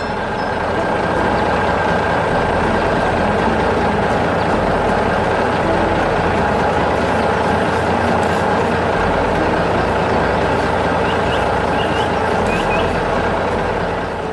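Heavy truck engine running steadily with a low rumble, the concrete mixer truck at work pouring concrete.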